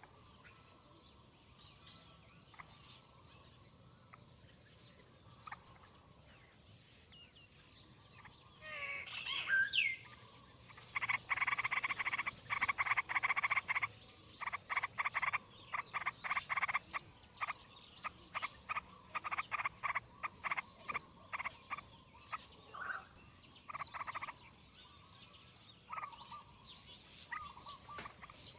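Animal calls: a loud gliding call about nine seconds in, then long trains of rapid pulsed calls repeated over the next dozen seconds, over a faint steady high hum.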